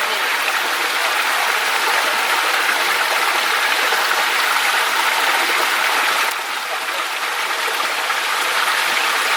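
Mountain stream rushing over rocks: a steady hiss of running water that eases slightly about six seconds in.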